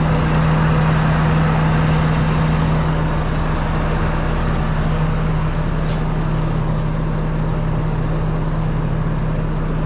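Combine harvester's engine running steadily, a loud constant hum with a strong low drone, with one faint click about six seconds in.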